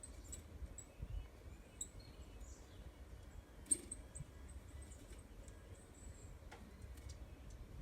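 Faint, short, high bird chirps scattered over a low background rumble, with one sharp click about three and a half seconds in.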